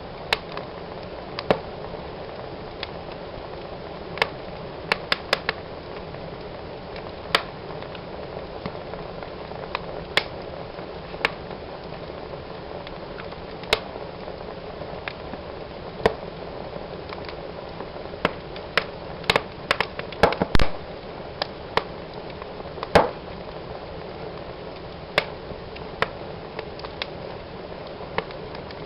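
Wood fire burning in a fireplace: a steady soft hiss with irregular sharp crackles and pops, which come thicker for a few seconds past the middle.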